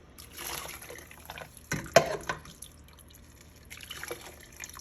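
Chicken stock poured through a strainer, trickling and dripping into the pot, with a couple of sharp knocks about two seconds in.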